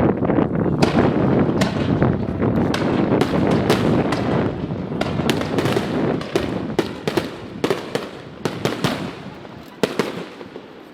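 Fireworks display: aerial shells bursting in a rapid barrage, a dense rumble of booms giving way after a few seconds to many sharp crackling cracks, the whole dying down near the end.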